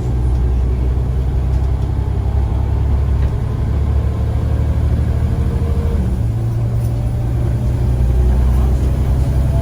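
Scania CN94UA single-decker bus engine running under way, a steady low drone with a faint higher whine above it; the engine note shifts about six seconds in.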